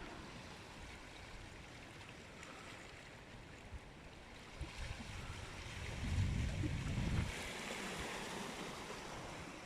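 Strong gusty wind buffeting the microphone over waves washing on the shore: a steady rushing noise, with low rumbling gusts swelling about five to seven seconds in.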